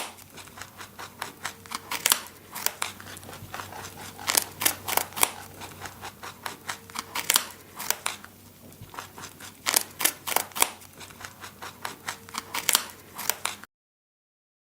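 A rabbit chewing food: quick, crisp crunching clicks in irregular runs over a faint low hum. It cuts off shortly before the end.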